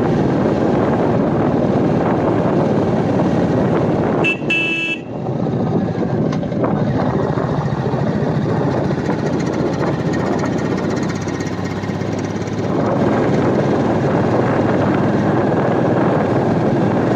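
Royal Enfield Meteor 350 single-cylinder motorcycle on the move, its engine running under heavy wind noise on the microphone. A horn toots briefly about four seconds in.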